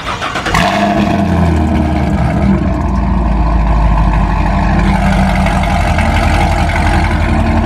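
A car engine starts about half a second in, then idles loudly and steadily with a deep, even rumble.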